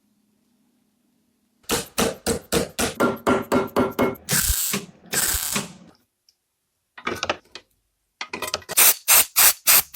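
A hand tool worked in quick, repeated strokes, about six a second, in two runs, with two longer scraping strokes between them.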